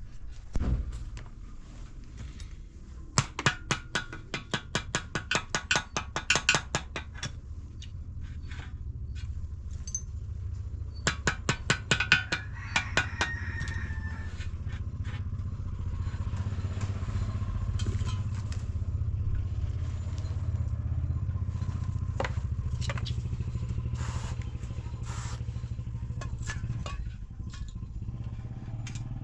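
An engine running with a steady low hum, joined by two bursts of fast, sharp clattering knocks, a few seconds in and again about eleven seconds in.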